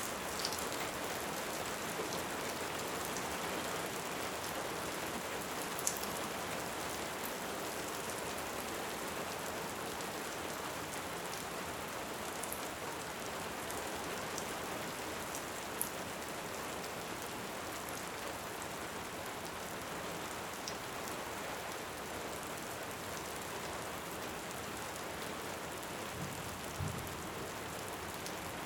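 Steady heavy rain, with a few sharp pops from a crackling wood fire now and then. There is a faint low thud near the end.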